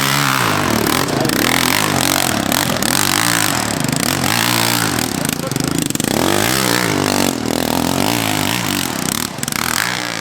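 Dirt bike engine revving hard up and down over and over, its pitch rising and falling several times as the throttle is worked on a steep hill climb.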